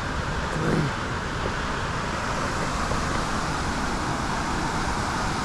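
Khlong Phlu waterfall: a steady, even rush of water pouring over rocks, running below full flow after little rain.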